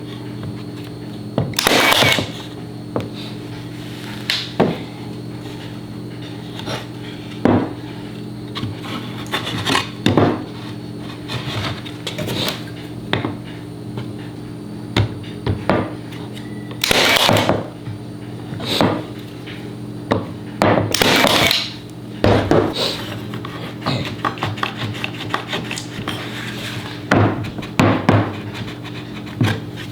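Workshop handling sounds: wood and tools knocked, set down and slid about on a workbench, with a few longer scraping bursts, over a steady hum.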